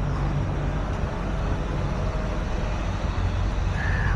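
Heavy truck diesel engine idling steadily, with a brief high-pitched squeal near the end.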